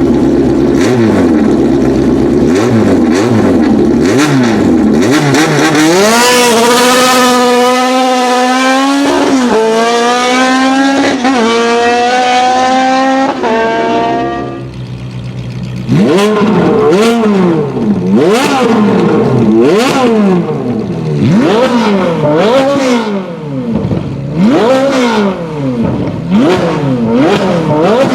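A race car engine accelerating hard through several gears, its pitch climbing and dropping sharply at each upshift. It then revs up and down repeatedly in quick blips, about one a second.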